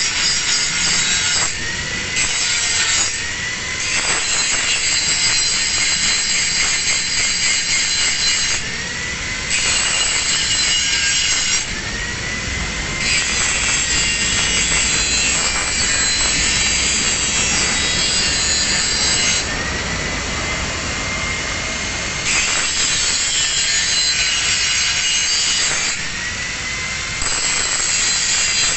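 Angle grinder grinding a single bevel on steel plate in repeated passes lasting several seconds. Each pass ends in a short dip, and the motor's whine rises back up to speed before the next pass.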